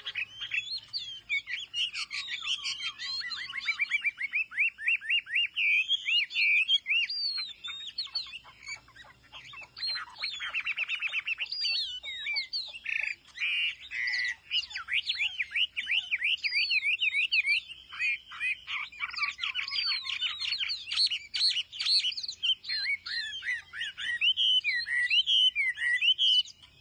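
Chinese hwamei singing a long, varied song of rapid trills and slurred whistles, with a short lull about eight seconds in.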